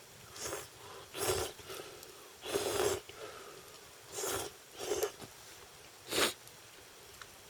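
A person slurping instant ramen noodles in six short, breathy slurps, the longest about two and a half seconds in.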